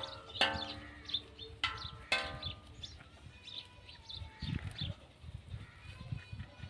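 Birds chirping and calling, with two loud, harsh calls about half a second and two seconds in, and short high chirps throughout.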